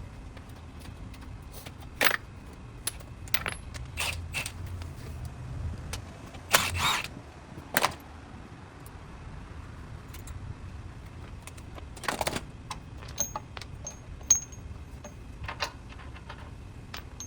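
Irregular metallic clinks, knocks and rattles of tools and hardware being handled. The loudest is a longer rattle about six and a half seconds in, and a few light, high clinks cluster around thirteen to fourteen seconds.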